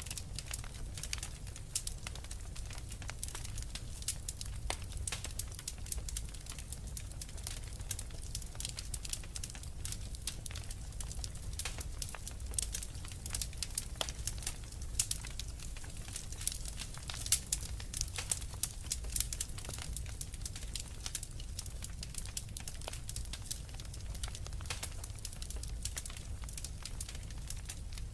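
Wood fire crackling in a fireplace: a constant run of irregular sharp pops and snaps over a low, steady rumble of the flames, with a few louder pops in the middle.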